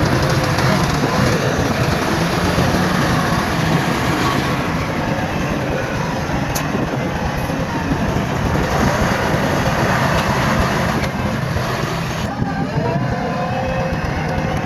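A bulldozer's diesel engine running steadily under load as it pushes soil and stone. Near the end a higher whine comes in over the engine.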